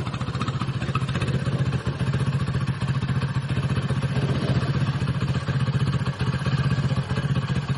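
Hero HF Deluxe's single-cylinder four-stroke motorcycle engine idling steadily and evenly after a rebuild with a rebored cylinder and new piston, the head noise it had cured.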